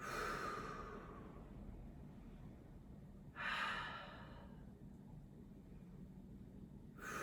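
A person's deep audible breaths, three slow sighing breaths about three and a half seconds apart, taken while holding a yoga twist.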